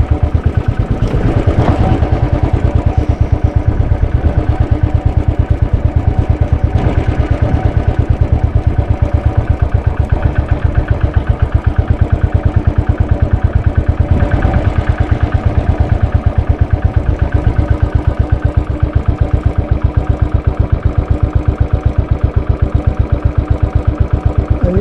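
Royal Enfield Bullet 500's single-cylinder engine running steadily at low revs, a fast, even train of exhaust beats with no change in speed.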